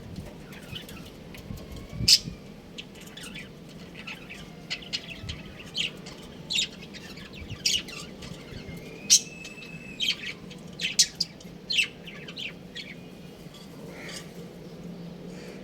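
Budgerigars chirping: a busy scatter of short, sharp, high chirps at uneven intervals, some much louder than others.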